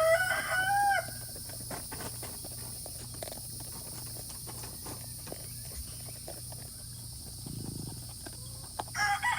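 A rooster crowing: one crow ends about a second in, and another crow in several parts starts near the end. Insects drone steadily throughout.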